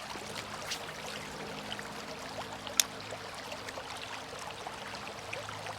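Creek water running and trickling in a steady rush, with scattered small ticks and one sharp click a little under three seconds in.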